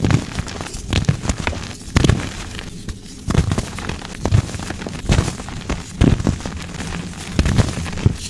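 Soft gym chalk blocks being crushed, crunching and crumbling in repeated crackly crushes about once a second, each with a dull thud.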